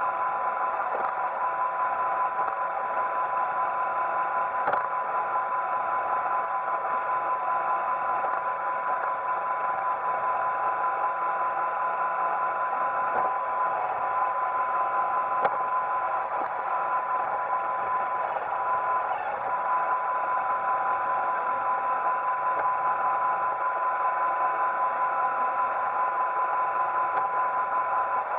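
Roomba 880 robot vacuum running: a steady motor whir with a whine held on one pitch, and a few faint clicks.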